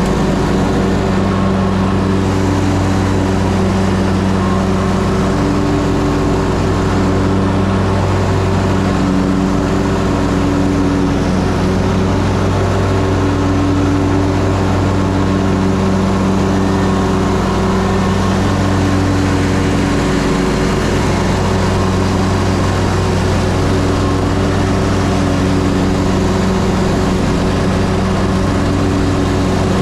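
Ferris Z3X zero-turn mower's 37 hp engine running steadily while mowing, with its hum swelling and easing slightly without stopping.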